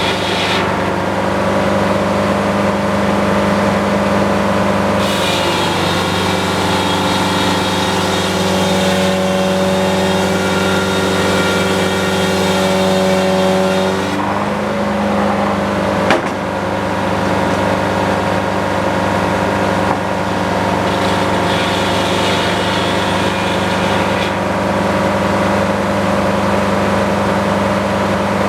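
Sawmill engine running steadily under power, its note shifting for several seconds midway as a different set of higher tones joins in, with one sharp knock a little past halfway.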